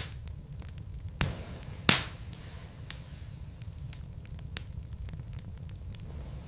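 Wood fire burning in a fireplace: a steady low rumble of flames with scattered small crackles and two louder pops of the logs about a second and two seconds in.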